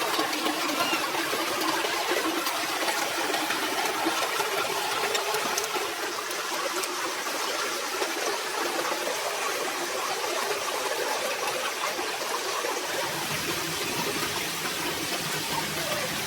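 Steady rushing noise of running water, with a low rumble joining in near the end.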